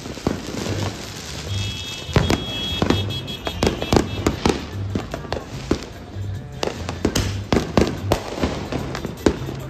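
Fireworks going off in quick succession: a long string of sharp bangs and crackles, thickest from about two seconds in.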